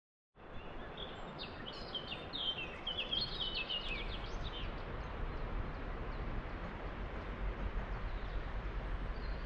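A songbird singing a short run of quick chirping notes that step downward in pitch, over a steady outdoor rushing noise. The noise takes on a stronger low rumble from about halfway through.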